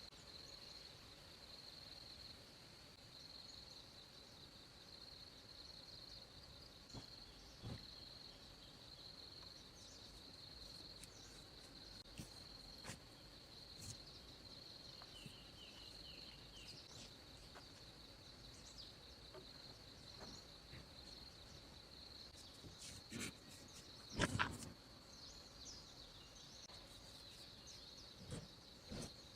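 Steady high-pitched insect drone, with scattered faint clicks and knocks and one louder knock about three-quarters of the way through.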